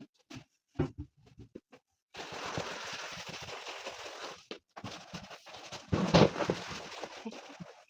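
Household cleaning and handling sounds: a few light knocks and clicks, then several seconds of steady rubbing noise, loudest about six seconds in.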